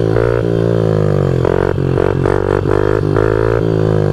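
Pit bike's small single-cylinder engine revving up and down on a super loud exhaust, with the throttle blipped several quick times in the second half.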